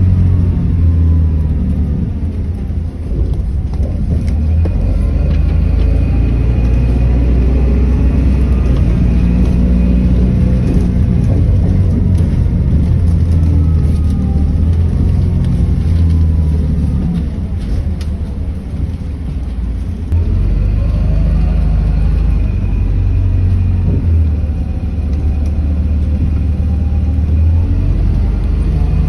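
Route bus heard from inside the cabin while driving: a steady low engine rumble, with the drivetrain's pitch rising and falling slowly several times as the bus speeds up and slows down.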